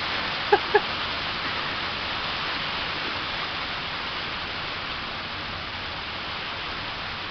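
Heavy rain falling steadily on a carport roof. Two short high-pitched chirps come close together about half a second in.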